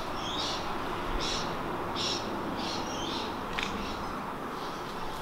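A bird calling: about five short, high calls a little under a second apart, over a steady outdoor noise bed.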